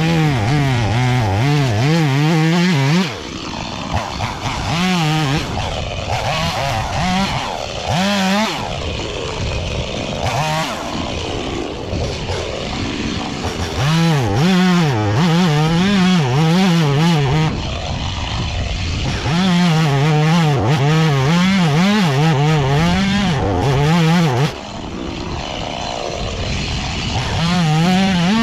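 A small engine running in bursts, its pitch wavering up and down quickly as the throttle is worked.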